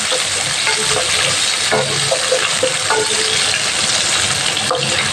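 Cashews, raisins, bay leaves and whole spices sizzling steadily as they fry in hot oil in a pan, stirred with a wooden spatula that scrapes and clicks against the pan now and then.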